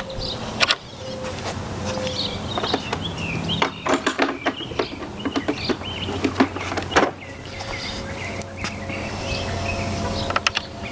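A yellow jacket buzzing close by, with scattered sharp clicks and knocks and birds chirping.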